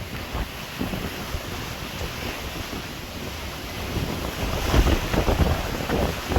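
Wind buffeting the microphone in gusts, growing stronger about four seconds in.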